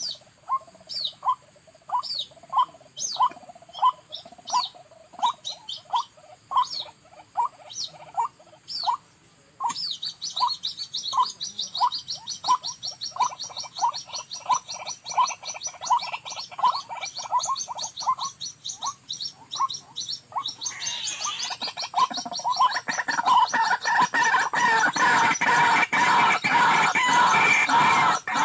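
White-breasted waterhens (ruak-ruak) calling: a steady string of short rising calls, about two a second, that turns into a louder, denser jumble of calls about two-thirds of the way through. A fast, high pulsing buzz runs under the calls from about a third of the way in.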